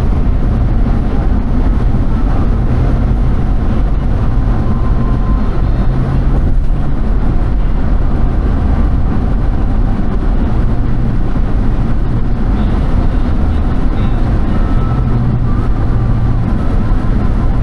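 Steady low noise of a moving vehicle, with a low hum that rises and falls in strength.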